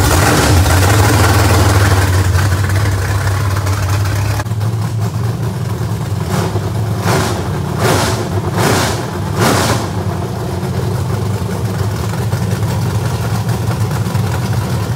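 The Buick Regal Winston Cup car's race engine running cold on a freshly fitted 390 CFM spec carburetor, not yet hooked up to its exhaust system. It runs steadily, then the throttle is blipped about five times in quick succession a little under halfway through. The owner judges it healthy, with the new carburetor giving it some fuel.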